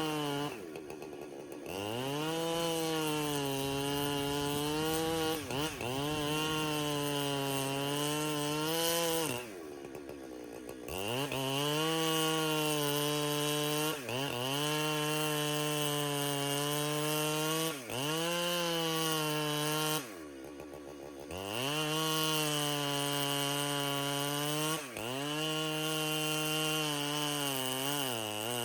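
Chainsaw engine held at high revs as it cuts, with brief dips in pitch under load. It drops back to idle three times between cuts and revs up again each time.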